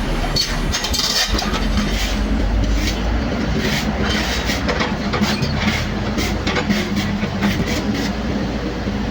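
Mini Kobelco excavator's diesel engine running steadily, with repeated short metallic knocks and clanks from the machine at work.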